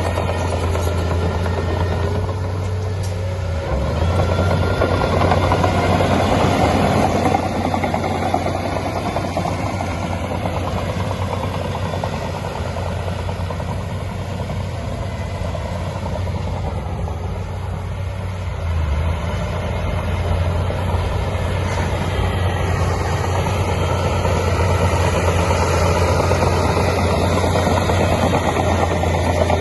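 Heavy diesel engine of earthmoving machinery running steadily with a deep low hum, getting louder about four seconds in and again about nineteen seconds in.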